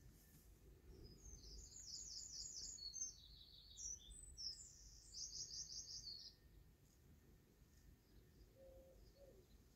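A small songbird singing faintly in a run of quick, high-pitched trilled phrases, from about a second in until about six seconds in.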